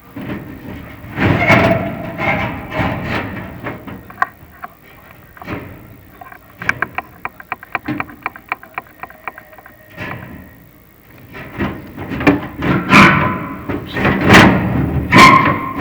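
Chimney inspection camera scraping and knocking against the metal pipe sections of a prefabricated fireplace flue as it is moved along, with a quick run of sharp clicks in the middle.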